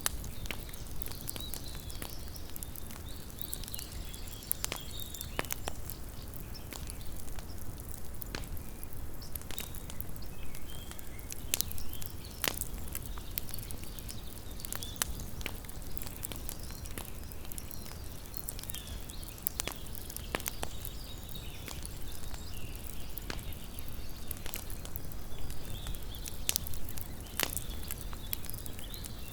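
Small wood campfire crackling, with irregular sharp pops and snaps over a low steady rumble.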